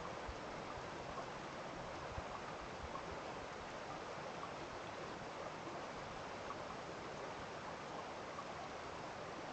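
Steady rush of running water, like a small stream, with faint scattered ticks over it.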